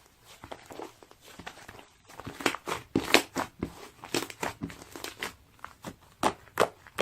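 Close, irregular crinkling and clicking sounds, sparse and faint for the first two seconds, then denser and louder.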